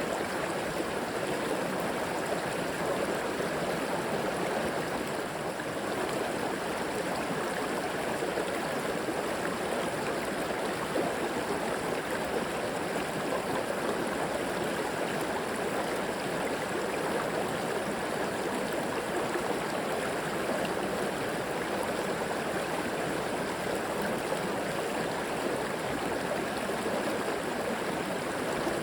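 River water flowing and gurgling over rocks, a steady rushing wash with no breaks.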